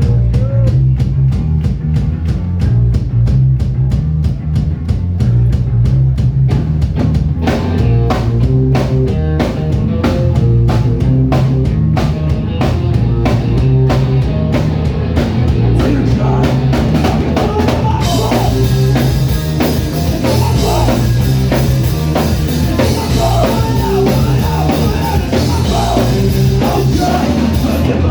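Loud rock music driven by a drum kit: a steady, even drum beat over bass, with cymbals crashing in about two-thirds of the way through as the full kit opens up.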